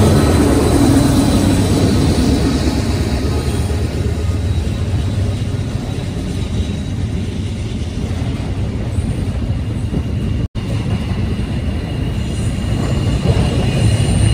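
A mid-train diesel locomotive of a Union Pacific double-stack intermodal train passing, loudest at the start and easing off, followed by the steady rumble of double-stack well cars rolling by. The sound drops out for an instant about ten seconds in, and a thin wheel squeal rises near the end.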